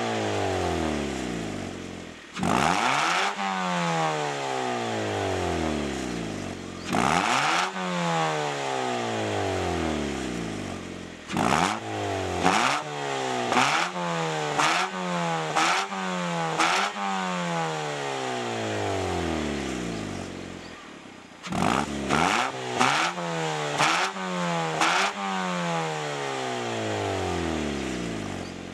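Mazda Demio's exhaust through a TANABE MEDALION g-FORDEN Blue aftermarket muffler with its inner silencer fitted, as the engine is free-revved while stationary. Single revs sweep up and fall back slowly toward idle. Two runs of quick short throttle blips come in the middle and near the end.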